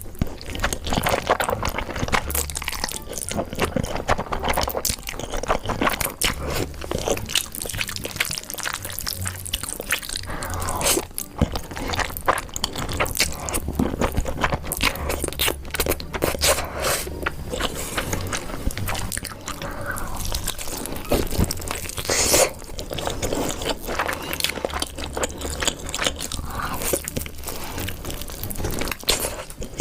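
Close-miked mukbang eating: a person biting, chewing and crunching spicy food, with moist mouth clicks and crackles packed close together throughout.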